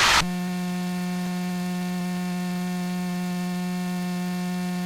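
Steady electrical buzz with a low pitch and many overtones, typical of noise in an aircraft intercom or recording line. It switches on abruptly and holds without change.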